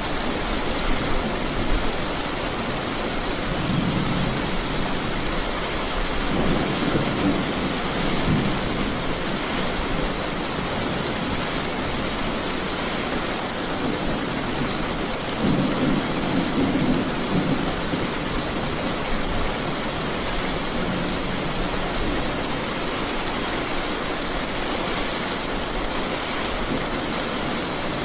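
Steady heavy rain with low rumbles of thunder swelling up a few times, the longest about sixteen seconds in.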